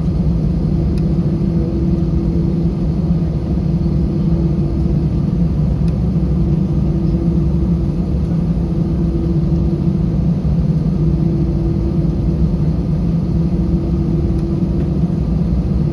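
Airbus A320 cabin noise while taxiing: a steady low rumble from the idling engines and the rolling airframe, with a steady hum that drops out briefly a few times.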